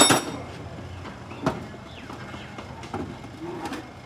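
A sharp metallic clink that rings briefly, followed by a few faint taps and knocks of hand work with tools on the car.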